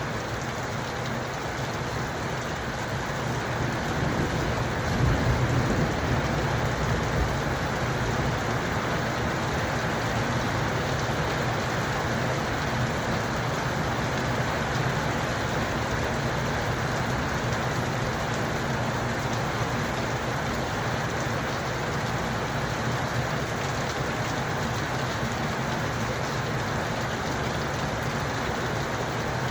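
Steady rain falling. A low rumble of thunder swells about five seconds in, then fades back into the rain.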